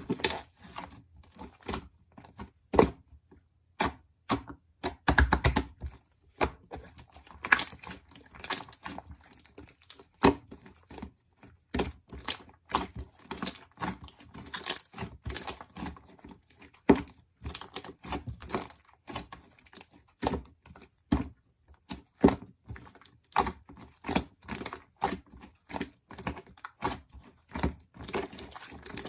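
Close-up handling of small objects: irregular taps, clicks and knocks mixed with short crinkling and tearing sounds.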